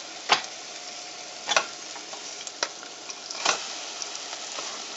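Sizzling in a saucepan of onion and garlic frying in butter and oil while red lentils are stirred in with a wooden spatula, which knocks against the pan about four times.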